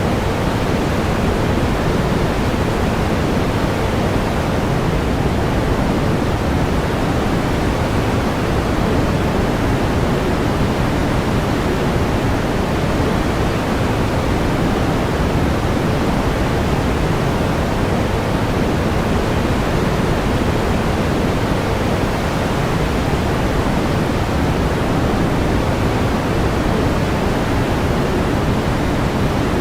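Steady pink noise: an even, unchanging hiss with more weight in the lows than the highs.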